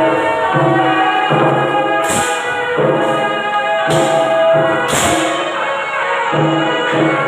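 Temple procession music: a held melodic line changing pitch over crashing cymbal strokes, three of them about two, four and five seconds in.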